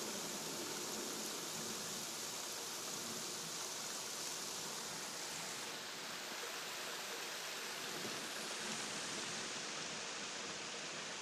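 Steady rain falling on trees and foliage: a dense, even hiss.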